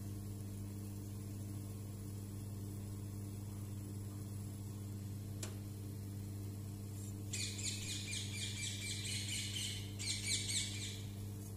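A small bird twittering in a rapid chirping run for about four seconds, starting past the middle, over a steady low hum; a single sharp click comes a little before it.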